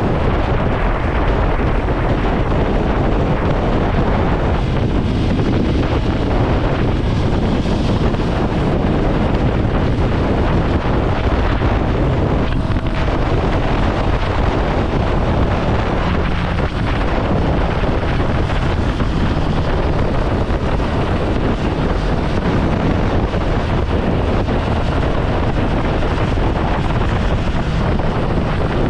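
Ducati Scrambler Sixty2's air-cooled 399 cc L-twin engine running on the move, largely buried under steady wind noise buffeting the microphone.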